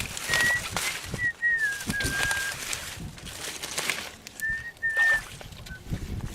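About seven short, clear whistled notes at one fairly high pitch, some falling slightly at the end, over irregular rustling and knocking noises.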